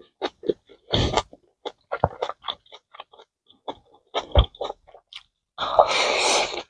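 Close-up chewing and mouth smacks of a man eating rice: a run of short wet clicks and bites, with a longer, louder rushing mouth noise near the end as he takes a big mouthful.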